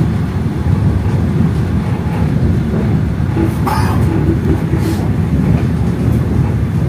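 Passenger train in motion: a steady, loud low rumble of the wheels on the rails. A short, sharper rattle comes a little past halfway through.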